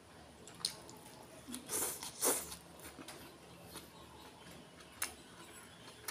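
Close-up mukbang eating sounds: wet mouth smacks and chewing of garlic fried rice and corned beef eaten by hand, heard as a few separate short clicks and smacks, the loudest pair about two seconds in.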